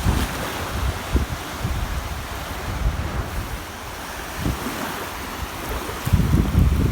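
Recorded ocean surf: waves washing in with a low rumble, a wave surging louder about six seconds in after a quieter lull.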